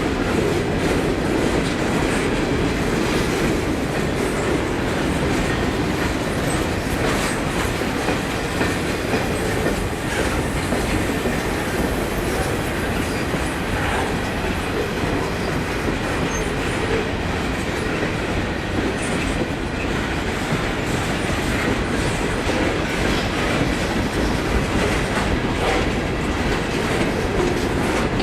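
Freight railroad cars rolling past, a steady rumble of steel wheels on rail with scattered clicks from the wheels passing over rail joints.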